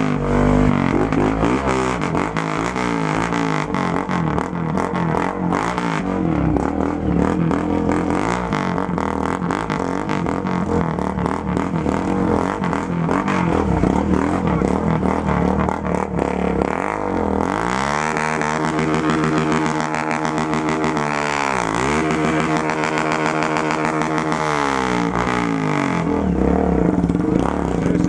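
Motorcycle engine revved hard and held at high revs, its pitch climbing, dipping sharply and falling again several times over the second half.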